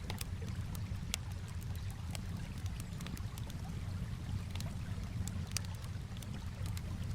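Campfire crackling with sharp, irregular pops and snaps over a steady low wash of gently moving water.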